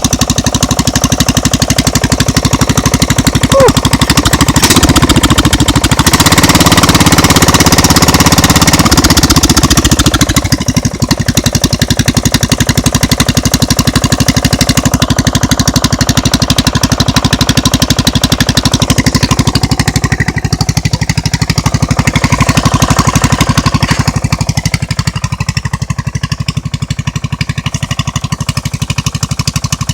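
Straight-piped V-twin engine with a short exhaust running loud, a rapid, even rattle of exhaust pulses. It runs hardest for the first ten seconds or so, then settles lower and eases further near the end.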